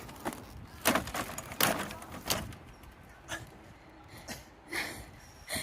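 A series of separate knocks and clatters at irregular intervals, roughly one every half second to a second, with quiet between them.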